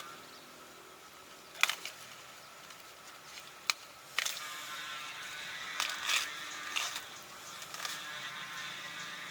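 Scattered short sharp knocks and clicks, about seven over several seconds, the loudest two near the start, over a steady faint high hiss.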